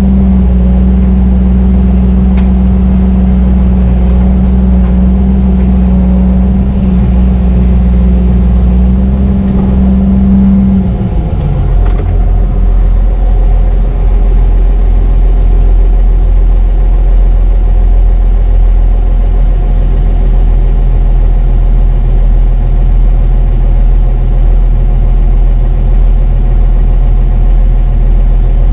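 Heavy diesel engine running at high revs, then the revs drop about eleven seconds in and it settles to a lower, throbbing note.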